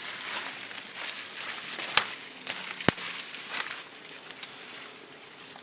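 Rustling and crackling handling noises with two sharp clicks, about two and three seconds in.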